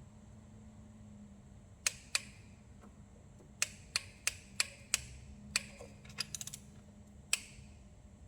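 Small click-type torque wrench: about a dozen sharp metallic clicks, spaced irregularly, as small bolts are tightened to 10 Nm. The click signals that the set torque has been reached.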